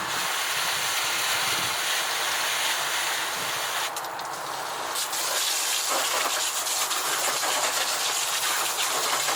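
Dump-station rinse hose spraying water at very high pressure, a loud steady hiss that briefly thins about four seconds in.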